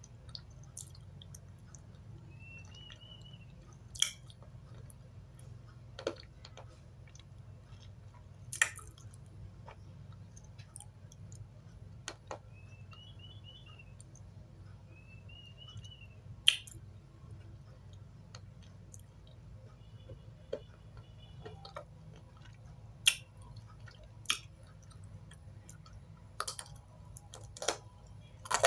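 Close-miked chewing of chunks of dry eating clay (chalk): sharp, brittle crunches every few seconds, more frequent near the end as a new piece is bitten, over a steady low hum.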